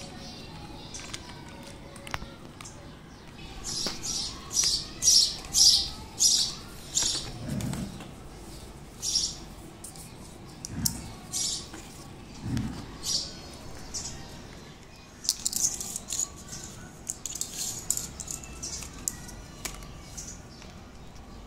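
A bird chirping in runs of short, high calls, about two a second, with pauses between the runs. Faint clicks of hard plastic interlocking blocks being handled sit underneath.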